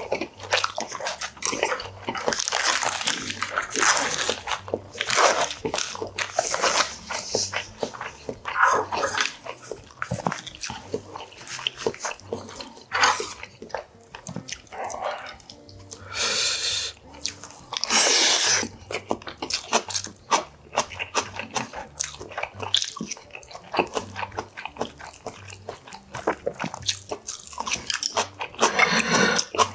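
Close-miked chewing and crunchy bites of rice and Korean side dishes, with frequent short clicks of wooden chopsticks and a spoon against the dishes.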